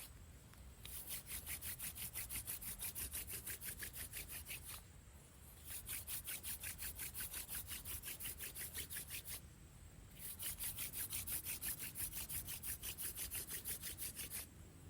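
Wooden hand drill spindle spun back and forth between the palms in a fireboard notch, a rapid rhythmic rubbing of wood on wood at several strokes a second. It comes in three runs of about four seconds, with short pauses between them.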